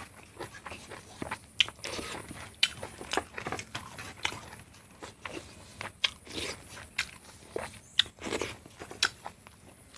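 Close-miked eating sounds: chewing and lip smacks with many irregular sharp clicks, and fingers picking food off a banana leaf.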